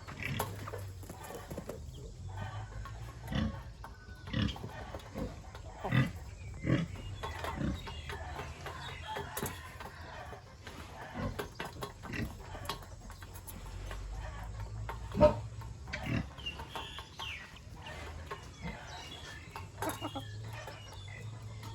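Pigs grunting and snuffling in short, irregular calls over a low steady hum, with one louder sudden sound about fifteen seconds in.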